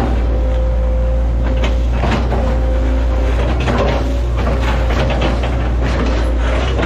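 Hitachi ZX110 excavator's diesel engine running steadily under work, with a steady hydraulic whine over it and irregular knocks and cracks.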